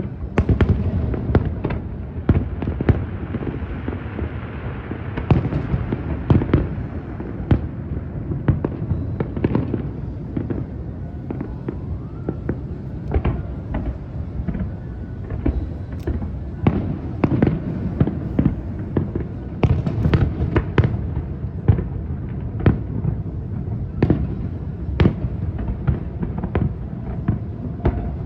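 Large fireworks display: aerial shells bursting one after another at irregular intervals, deep booms mixed with sharp cracks, with a spell of crackling about three to five seconds in.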